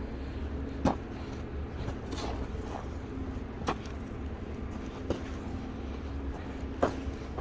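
Steady low rumble with a faint hum, and four short sharp knocks or crunches at uneven intervals, the loudest about a second in and near the end.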